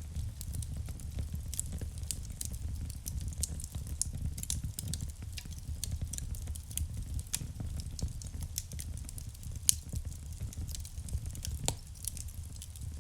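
Wood burning in a fireplace: irregular sharp crackles and pops over a low, steady rumble of the flames, with one louder pop about ten seconds in.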